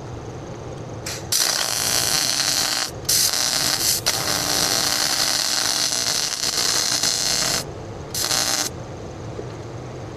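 Abrasive power tool grinding metal in bursts: a long run with a short break, then one brief touch near the end.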